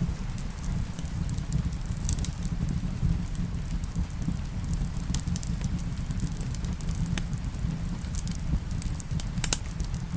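Wood fire crackling in a fireplace: scattered sharp pops and snaps over a steady low rumble, with a louder pop about two seconds in and another near the end. Rain falls steadily underneath.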